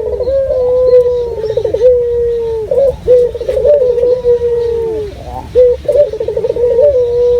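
Male puter (Barbary dove) cooing over and over: each coo is a quick rolling run of pulses that goes into a long held note dropping in pitch at the end, and the coos overlap one another.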